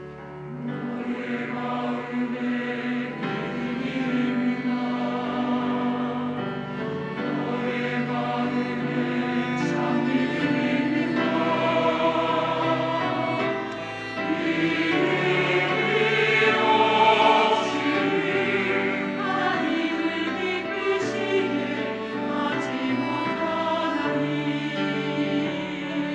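Church choir singing a slow anthem in Korean, accompanied by strings. The choir swells in about a second in and grows fuller after a short dip about 14 s in.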